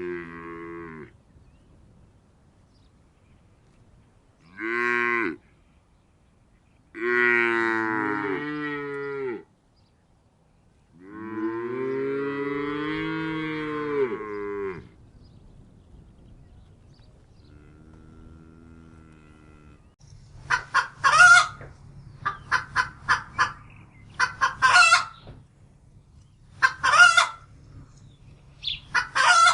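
Cattle mooing: several long calls over the first fifteen seconds, then a fainter one. From about twenty seconds in, chickens clucking in quick, repeated bursts.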